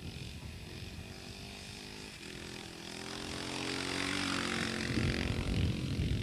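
Husqvarna 610 single-cylinder four-stroke motorcycle engine revving, its pitch rising about two seconds in and the sound growing steadily louder as the bike comes closer.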